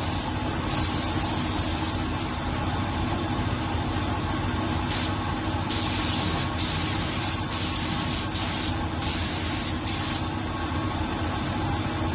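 Compressed air hissing in repeated short bursts, as from an air or spray gun being triggered on and off, over a steady low machine hum.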